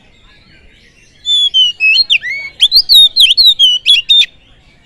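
Oriental magpie-robin (kacer) singing a loud phrase of varied whistled notes that slide up and down, starting about a second in and lasting about three seconds. This is the song of a fired-up ('panas') male kacer, used as a pancingan track to provoke other kacer into singing.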